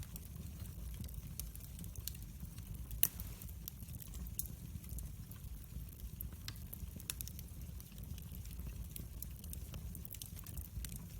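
Wood fire burning in a fireplace: a steady low rumble of the flames, with scattered sharp crackles and pops from the burning wood, the loudest pop about three seconds in.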